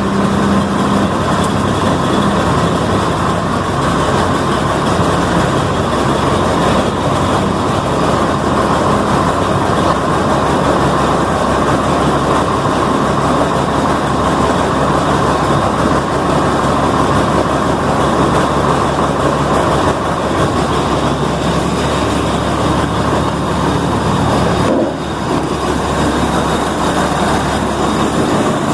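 Old diesel engine running steadily after a cold start without preheat, the level dipping briefly about 25 seconds in.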